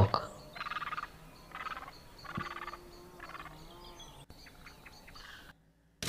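Bird calls: four short, rattling chatters, each a quick run of pulses, coming less than a second apart, then fainter scattered calls.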